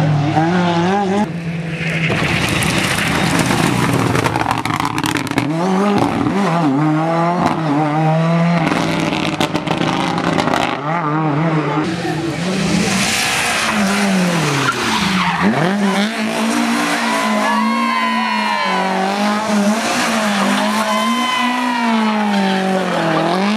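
Rally car engine revving hard, its pitch repeatedly dropping and climbing through gear changes and lifts for corners, with tyre squeal and a run of sharp cracks in the first half.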